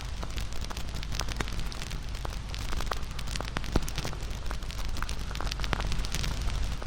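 Wood fire crackling, with frequent irregular snaps and pops over a low steady rumble. One sharper pop comes a little before four seconds in.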